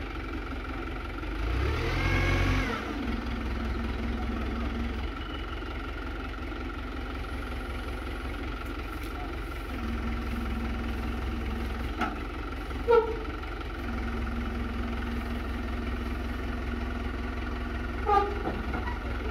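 Diesel engine of a Hino Dutro 130 HD dump truck running steadily. About two seconds in, it revs briefly, rising then falling. A few short sharp sounds come later.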